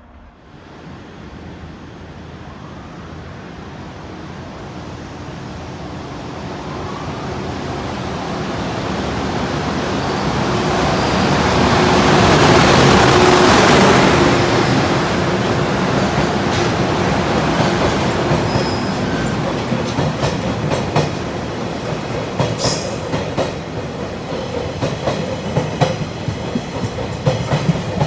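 A freight train approaching and passing close by. Its running noise builds steadily to a peak about halfway through, then the rest of the train carries on past with a rapid clickety-clack of wheels over rail joints.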